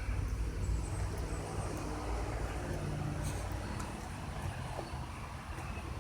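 Low, steady rumble of a motor vehicle running nearby, with faint engine hum.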